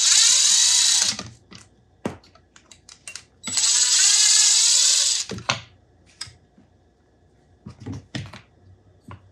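Power drill driving two screws, in two runs of a second or two each, with short clicks and knocks of handling between and after.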